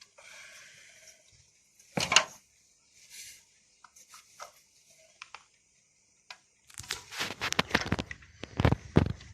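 Clicks, taps and knocks of parts being handled during repair of the vacuum cleaner's motor: a single loud knock about two seconds in, a few light ticks, then a quick run of knocks over the last few seconds.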